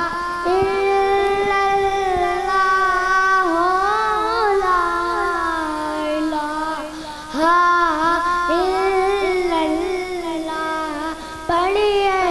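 A child singing a naat, an Islamic devotional hymn, in a single voice. The singing has long held notes with ornamented bends and glides between phrases, and a short break just after seven seconds in.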